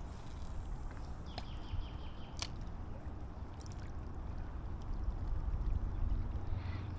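Water sloshing and lapping, with a steady low rumble and a few sharp clicks about a second or two in.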